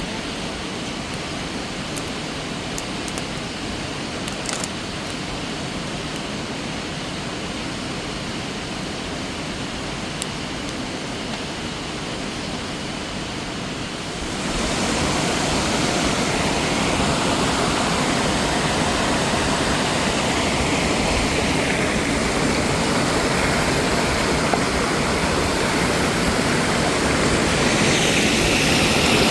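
Rushing water running steadily, stepping suddenly louder about halfway through.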